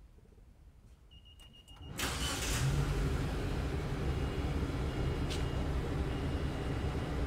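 Car engine started remotely by a Bluetooth phone command through an Arduino-switched starter relay: a short high beep and a few clicks, then about two seconds in the starter cranks briefly and the engine catches and settles into a steady idle.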